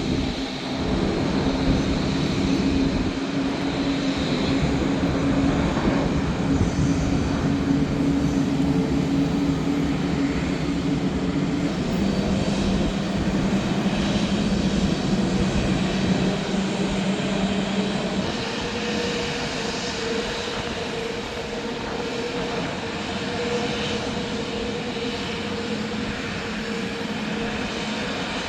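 Jet airliner's engines running, a steady roar with a hum whose pitch drops about twelve seconds in; a higher hum takes over about eighteen seconds in as the sound eases slightly.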